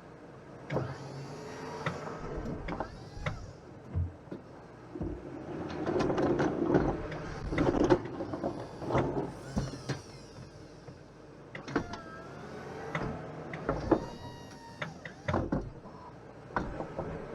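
Massey Ferguson 1725 sub-compact tractor's diesel engine running, with a wavering whine that rises and falls and repeated sharp clunks and knocks.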